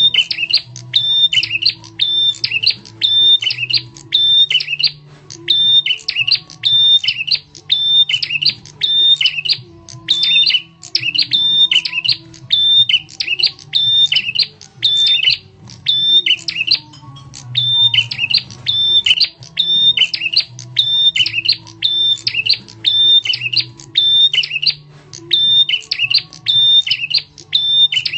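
Prenjak tamu bird lure call: loud, sharp chirping calls repeated about once a second in runs with brief pauses, over a steady low hum.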